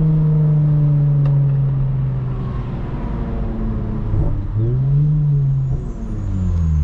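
The 3.5-litre V6 of a 2022 Lexus IS350 running through a Tsudo mid-pipe with no secondary cats and a muffler-delete axle-back, heard while driving. The engine note falls slowly as the revs drop, then rises and falls again about four to five seconds in.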